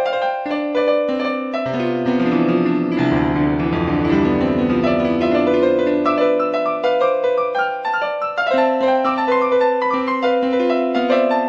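Background piano music: a slow, sustained melody over held bass notes.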